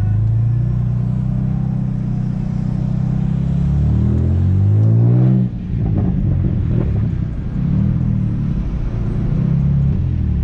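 Car engine running steadily, then revving up with the pitch climbing for about two seconds. About five and a half seconds in it drops abruptly as at a gear change, and then goes on as an uneven low rumble.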